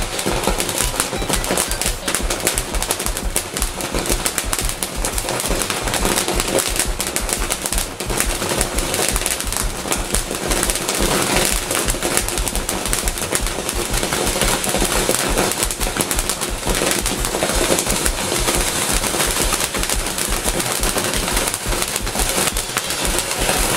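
TNT Loco Lobo firework going off with a dense, continuous run of rapid crackling pops, over background music.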